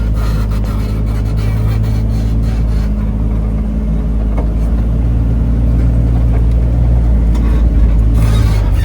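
Off-road vehicle's engine running at low speed on a trail, a steady low drone heard from inside the open cab, its pitch shifting slightly partway through.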